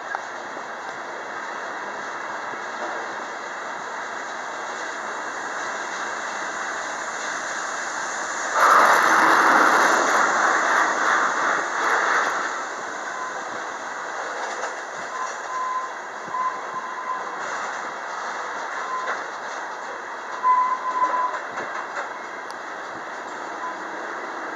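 Freight train of tank cars rolling past, a steady rumble and rattle of wheels on rail with a much louder stretch lasting about four seconds a third of the way in. Faint, short wheel squeals come and go later on.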